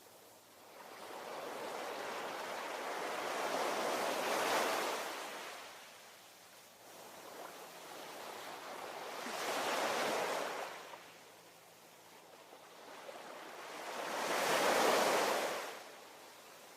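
Ocean waves breaking and washing up the shore: three swells of surf rushing in and fading away, about five seconds apart, the last one the loudest.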